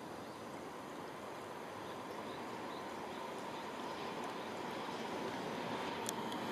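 Tobu Spacia limited express electric train approaching from a distance, its faint running noise slowly growing louder.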